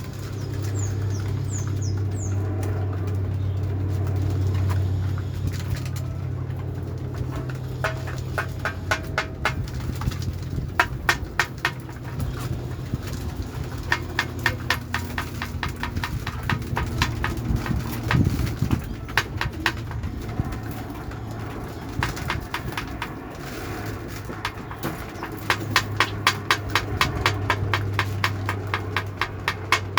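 Pigeons flapping their wings in repeated rapid bursts of wingbeats over a steady low hum.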